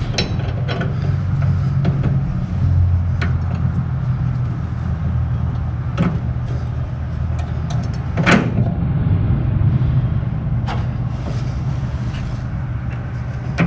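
A steady low machine hum, with a few sharp metallic clicks and knocks from hand tools and parts being handled, the loudest about eight seconds in.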